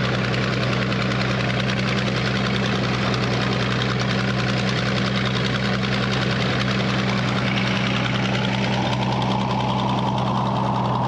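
Minneapolis Moline HEB 605-cubic-inch engine running steadily, powering a Frick circular sawmill. A higher-pitched sound swells in over it about eight seconds in.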